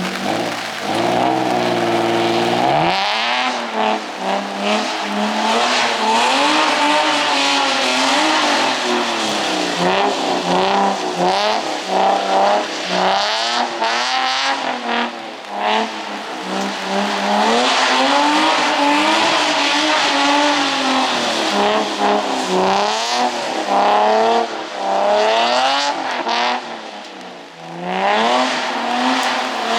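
A car engine being revved hard during drifting, its note climbing and falling every second or two as the throttle is worked, with a brief drop in level near the end.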